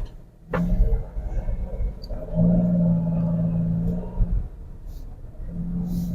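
Honda N-One's small three-cylinder engine and road rumble heard from inside the cabin while driving, with a steady humming drone that holds for about two seconds and comes back near the end.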